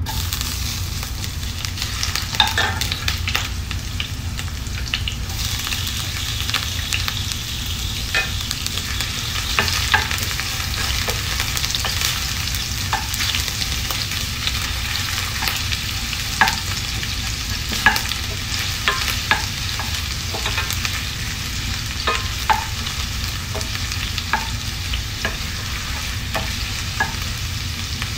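Ginger strips frying in hot oil in a stainless steel pan, sizzling steadily, while a wooden spoon stirs them and knocks against the pan now and then with irregular sharp clicks.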